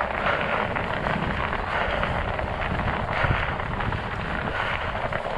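Studded fat-bike tyres rolling over ice and snow: a steady crackling rumble, with wind buffeting the microphone.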